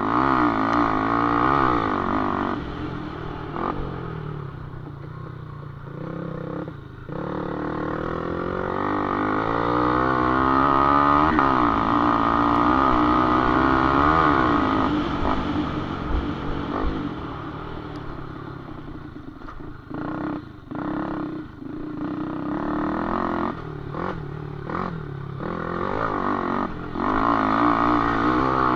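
Small underbone motorcycle engine revving hard, its pitch rising and falling again and again as the throttle opens and closes, with several brief throttle cuts in the second half.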